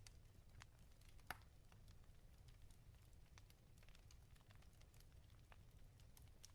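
Wood fire crackling in a fireplace: faint, irregular small pops and snaps over a low steady rumble, with one louder pop about a second in.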